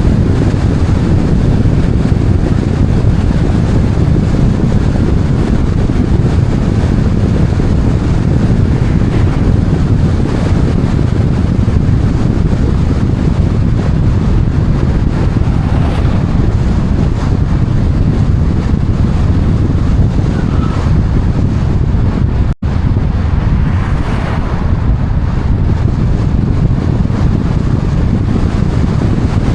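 Steady, loud, low rumbling wind noise on the microphone, cutting out for an instant about three-quarters of the way through.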